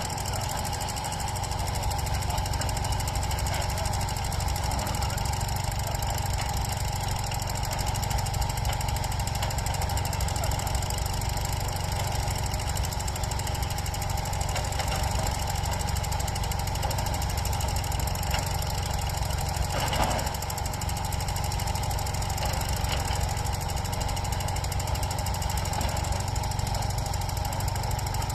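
Railway track maintenance machinery running steadily: an engine drone with a fast rhythmic pulsing, and a single clank about two-thirds of the way through.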